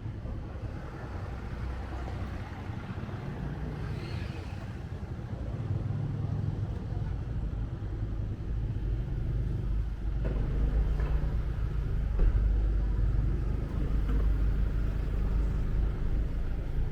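Motorbike engine running with a steady low rumble and surrounding street traffic as the bike rides along, getting louder about ten seconds in.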